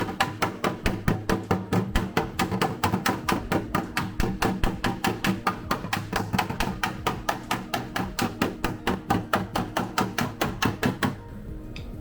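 Body hammer tapping on car sheet metal in a fast, even rhythm of about five blows a second, working the panel straight; the tapping stops near the end.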